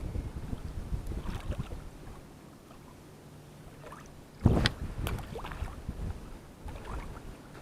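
Strong wind buffeting the microphone in gusts, easing off about two seconds in. About four and a half seconds in comes a sharp thump, the loudest sound, followed by a few lighter knocks.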